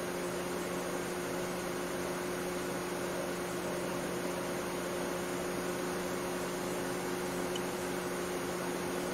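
Steady hum and hiss of a 2008 Mercedes C180 Kompressor (W204) idling, heard from the driver's seat. The electric radiator cooling fan is no longer running flat out, now that the refrigerant pressure sensor reads 0 bar.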